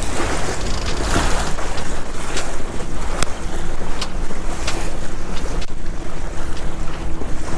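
Wind buffeting the microphone aboard a small sailboat under way, with water washing along the hull and scattered sharp clicks and knocks from the boat.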